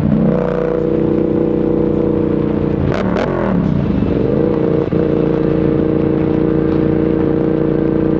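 Yamaha MT-07's 689 cc parallel-twin engine running under way at a steady speed. About three seconds in, two sharp clicks come and the engine's pitch dips, then climbs back and settles.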